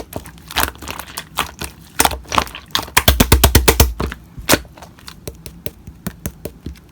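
Slime being squeezed and pressed by hand, making sharp popping and crackling clicks. About three seconds in comes a quick run of pops with low thuds, and the clicks thin out toward the end.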